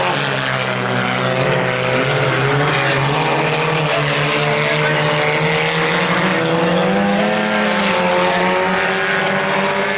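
Several four-cylinder front-wheel-drive sport compact race cars racing together on a dirt oval, their engines revving up and down as they go through the turns and down the straights.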